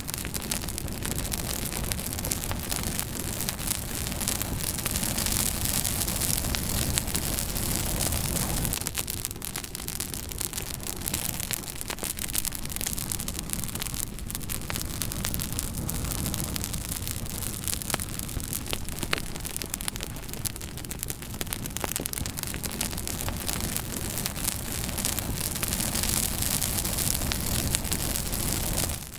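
Fire burning in a fireplace: a steady hiss and low rumble, with frequent sharp crackles and pops.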